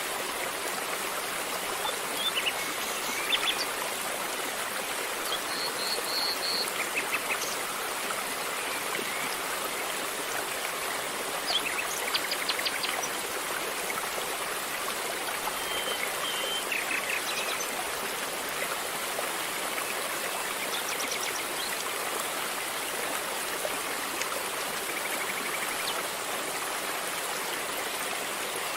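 River water flowing, a steady rushing babble, with a few brief high-pitched chirps or plinks now and then.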